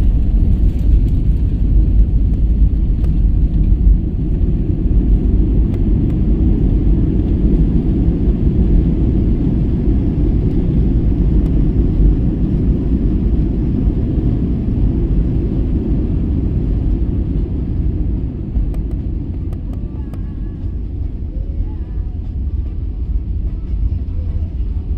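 Steady low rumble in the cabin of an Airbus A320neo landing: the roll and roar of the airliner on the runway. The rumble eases a little about twenty seconds in as the aircraft slows.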